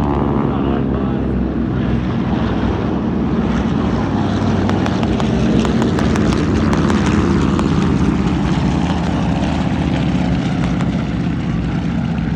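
Propeller-driven airplane flying past low and loud, its engine pitch dropping in the first second as it passes, then a steady heavy drone.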